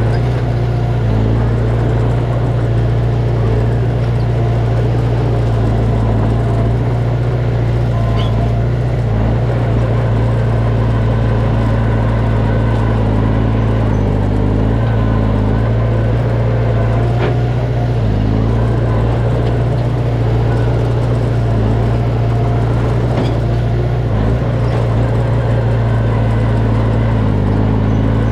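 Komatsu D20P bulldozer's diesel engine running steadily under load, its pitch shifting slightly now and then, with a few faint high squeaks.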